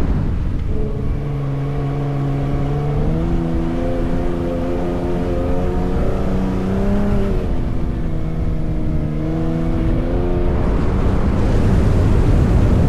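Ford F-150 Raptor's engine droning at steady pitches while driving on sand. The pitch steps up about three seconds in and drops after about seven seconds. Near the end a rush of tyre and wind noise takes over.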